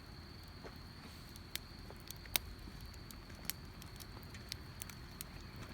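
Wood campfire crackling: scattered sharp pops and snaps at irregular intervals, the loudest a little under halfway, over a steady high insect trill.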